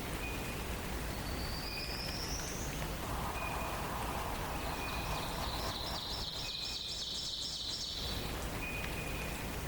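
Forest songbirds in a dawn chorus. One bird repeats a short high note about once a second, a rising whistle comes about a second and a half in, and a fast high trill runs from about five to eight seconds in. Under them runs a steady hiss of background noise.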